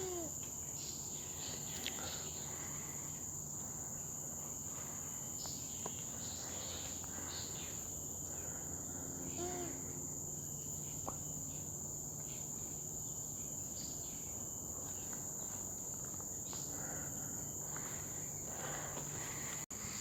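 Steady high-pitched insect chorus of tropical forest, unbroken throughout, with two faint short calls, one at the start and one about halfway.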